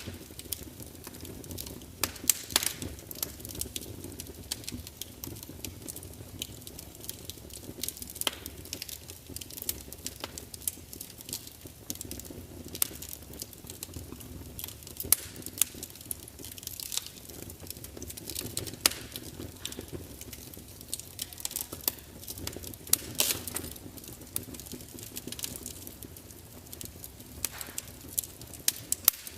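Wood fire burning in a large open fireplace: a low steady rumble of flames with irregular crackling and frequent sharp pops and spits from the burning logs.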